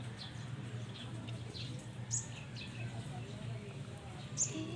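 Small birds chirping: short, sharp chirps repeated every half second or so, over a steady low hum.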